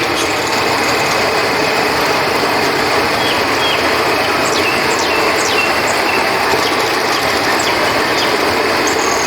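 River water flowing in a steady rush, with scattered short, high chirps of night creatures above it.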